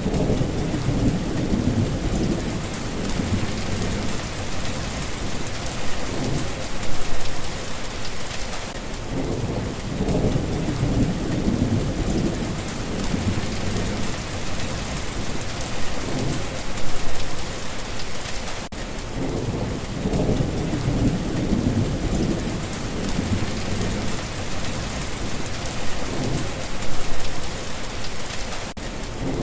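Steady heavy rain hissing, with low rolling rumbles of thunder swelling and fading every several seconds.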